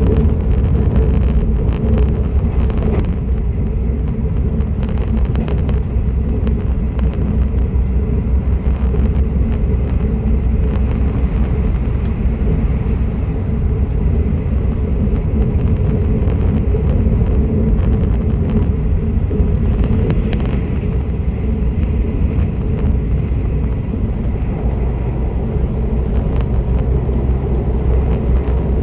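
Passenger train running on the line, heard from inside the carriage: a steady low rumble of wheels and running gear, with faint clicks here and there.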